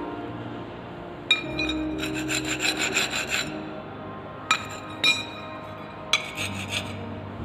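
Rubber tyre scraping and rubbing against a scooter's alloy rim in three bursts, the longest about two seconds, as a new tyre is worked onto the wheel; background music underneath.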